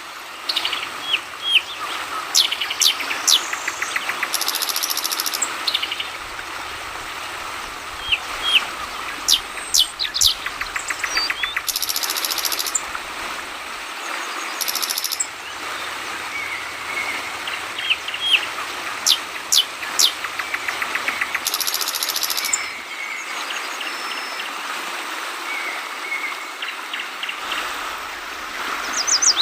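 Yellow-vented bulbuls (trucukan) calling with sharp repeated chirps and short rattling trills over the steady babble of flowing water. A few brief high buzzy bursts come in between.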